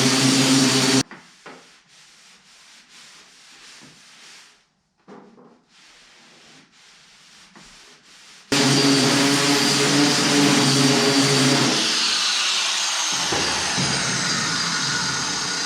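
Power sanding tool running against a steel door panel, a steady hum with a scratchy sanding noise. It stops about a second in, leaving faint scraping strokes, starts again a few seconds later and slowly dies away near the end.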